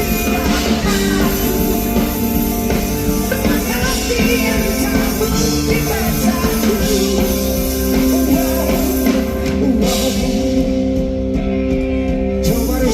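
Live rock band with a singer performing a song: guitar, drums and sustained chords under the vocal. The bright top end drops away for a couple of seconds near the end.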